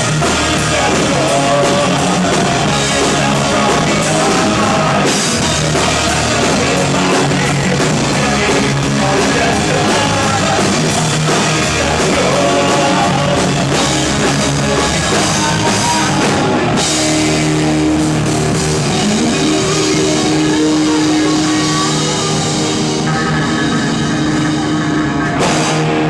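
Live rock band playing at full volume: distorted electric guitars, bass and drum kit, with some singing. The song ends abruptly at the very end.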